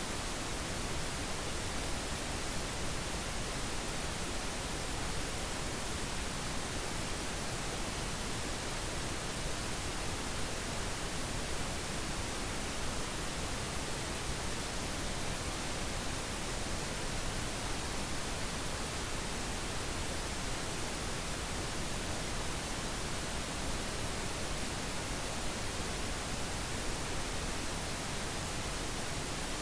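Synthetic pink noise: a steady, even hiss spread across the whole frequency range, with no change or events.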